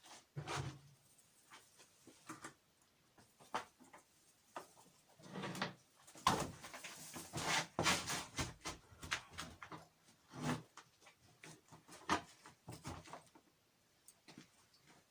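Irregular knocks, clatter and scraping of a chair and other objects being moved and stacked into a makeshift ladder, busiest in the middle.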